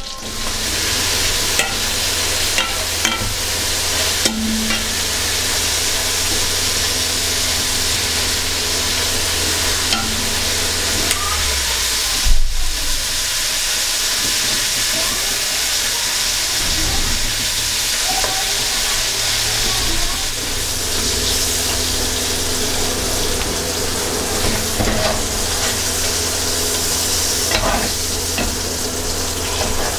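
Whole green chillies sizzling in hot oil in a metal wok. The hiss starts suddenly as they drop in and stays steady while they are stirred. One sharp knock about twelve seconds in.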